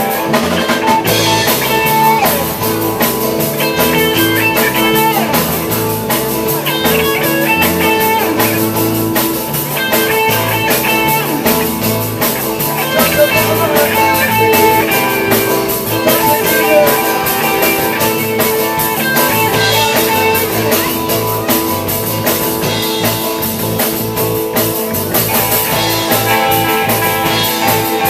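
Instrumental blues-rock jam: guitar playing melodic lead lines over a stepping bass line and a steady drum-kit beat, with no vocals.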